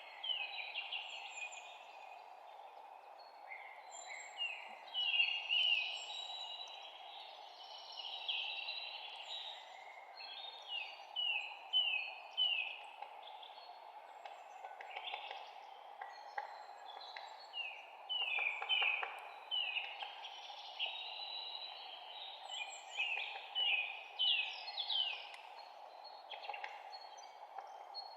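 Several songbirds chirping and singing, many short falling notes often in quick runs of three or four, over a steady low hiss of background noise.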